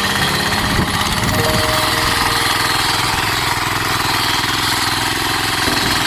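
Diesel engine of a hand tractor running steadily, its pitch shifting a few times.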